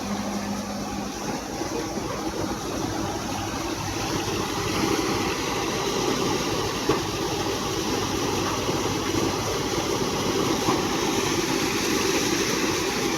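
Kubota 4501 tractor's diesel engine running steadily, with an even, fast firing beat, getting slightly louder about four seconds in.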